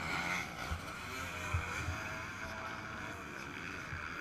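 Yamaha YZ125 two-stroke motocross engine running at high revs under way, heard through a GoPro with wind on the microphone and a few dull thumps.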